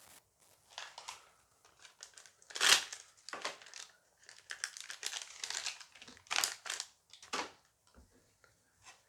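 A booster-pack wrapper being torn open and crinkled by hand, in irregular crackles that are loudest about two and a half seconds in and again past six seconds.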